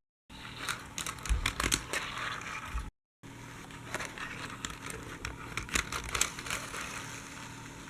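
Crinkling and clicking handling noise, with a few low thumps about a second and a half in, broken by a brief dropout about three seconds in.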